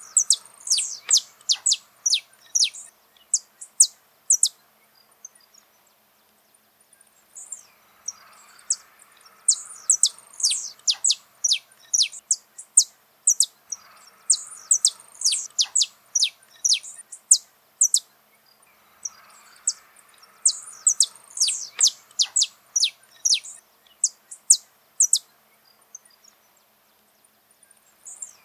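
Saffron finch singing: about four long bouts of rapid, sharp, high notes, most of them falling quickly in pitch, separated by short pauses.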